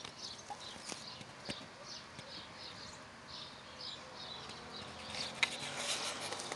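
Small birds chirping outdoors in short, repeated high calls. A few clicks are heard, and near the end there is louder rustling of leaves brushing close to the microphone.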